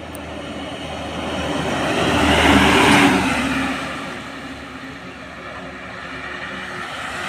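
A truck drives past, its engine and tyre noise growing louder to a peak about three seconds in and then fading away.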